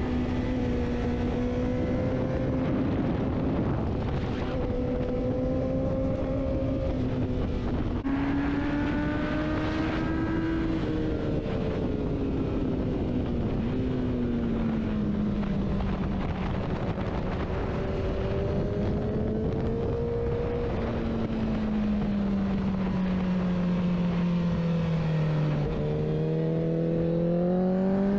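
Onboard sound of a motorcycle engine at speed on a race track, its pitch rising and falling as it accelerates, shifts and slows for corners, over steady wind rush. The note sinks slowly for several seconds before climbing again near the end.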